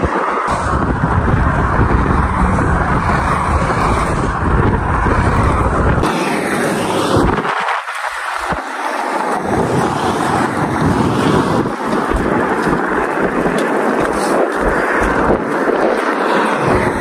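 Strong wind buffeting the microphone in gusts: a loud rushing roar with a heavy low rumble that eases off briefly a few times and then returns.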